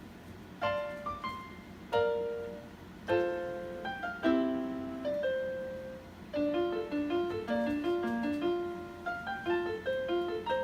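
Solo piano playing: a few slow, ringing chords, then a quicker melody of single notes over chords from about six seconds in.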